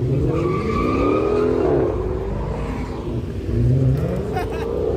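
Car engine revving hard, its pitch rising and falling in several swells.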